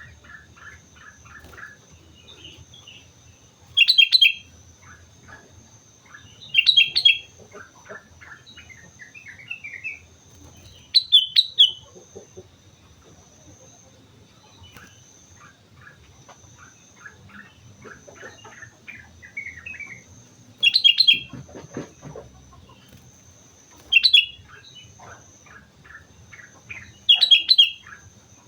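Sooty-headed bulbul (kutilang) singing in full voice: six short, loud phrases a few seconds apart, with softer chirps between them.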